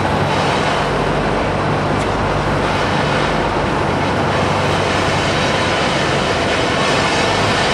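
A train running by, a steady rumble of wheels on rail with a low, steady hum underneath.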